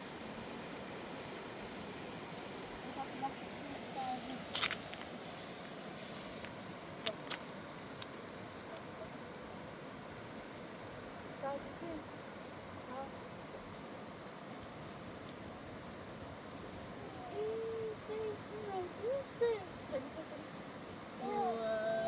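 A cricket chirping in a high, even series of pulses, several a second and unbroken, over a steady rushing background. Faint voices are heard near the end.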